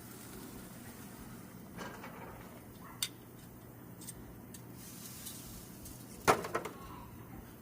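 A few sharp metallic clicks and clanks from handling things on a grill, spread out, with the loudest quick cluster about six seconds in, over a low steady background.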